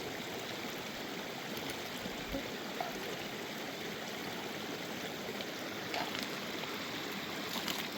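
Steady rush of running water in heavy rain, with a few faint ticks near the end.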